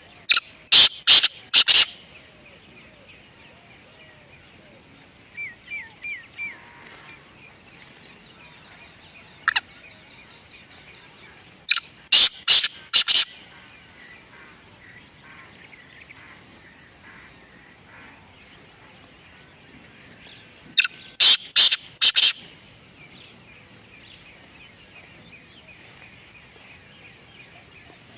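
Black francolin calling: three loud, harsh phrases about ten seconds apart, each a quick run of about five sharp notes lasting about a second and a half.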